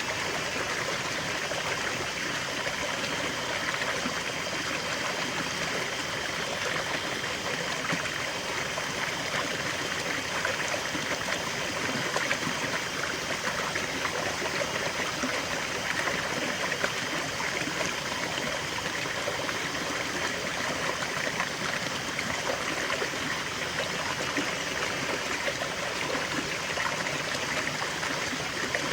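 River water flowing steadily, a continuous rushing and trickling with no change in level.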